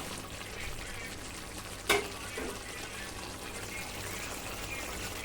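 Chicken frying in gravy in a pan, a steady sizzle, with one sharp knock about two seconds in.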